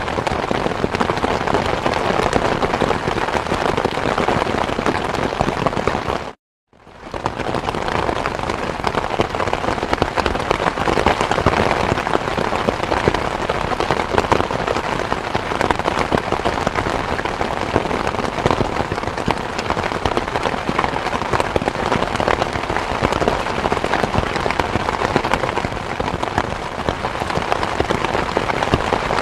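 Steady rain, a dense even patter. About six seconds in, it cuts out to silence for about half a second, then fades back in.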